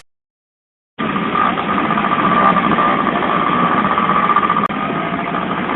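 After about a second of silence, a motorcycle engine running steadily, with a steady high-pitched whine over the engine noise.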